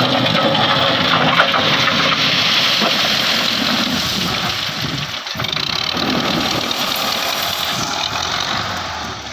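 Belarus 510 tractor's diesel engine running steadily, with a brief dip in loudness about five seconds in.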